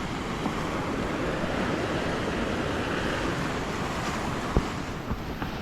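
Rough storm surf breaking and washing onto the beach in a steady rush, with wind buffeting the microphone.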